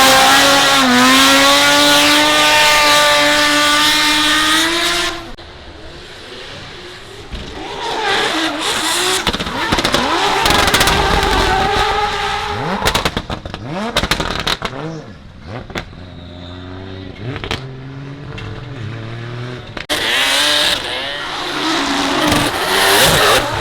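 Drift cars on a wet track going past one after another at high revs. The first car holds its revs and then drops away suddenly about five seconds in, another swells past a few seconds later, and a loud one comes back near the end; a quick run of sharp pops or clicks sits in the middle.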